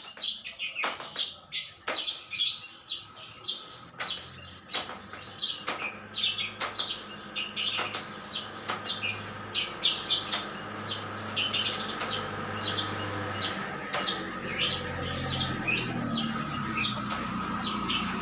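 Birds chirping, short high chirps about two to three a second. A low steady hum comes in after a few seconds and runs under them.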